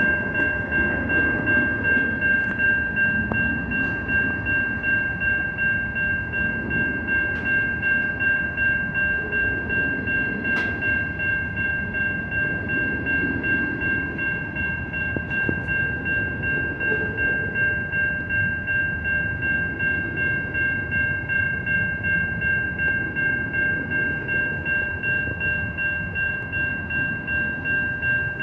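Level crossing warning bell ringing in a steady, rapid pulse about twice a second, over the low rumble of a train passing.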